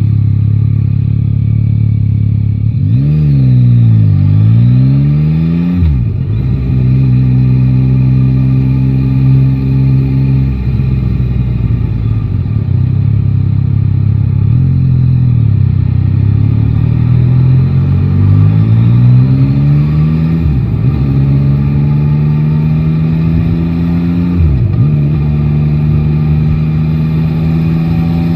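Yamaha Tracer 9 GT's three-cylinder engine on the move. Revs dip and climb a few seconds in, hold steady, then build gradually. The bike shifts up with a sudden drop in pitch about two-thirds of the way through, and again near the end.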